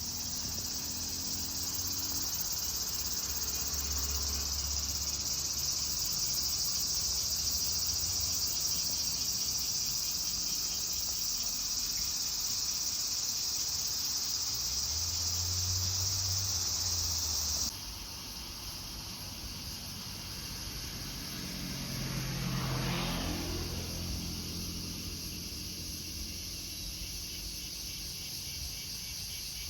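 Insects, crickets or similar, chirping in a steady high chorus, with a car passing about three quarters of the way through. The chorus changes abruptly partway through, where the recording cuts.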